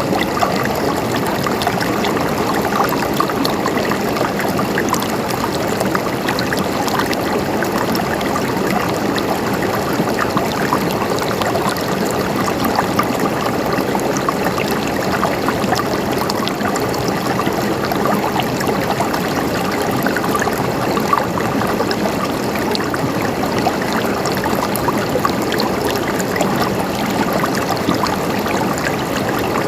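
Running water gurgling and splashing steadily, a constant close wash of small splashes and trickles with no pauses.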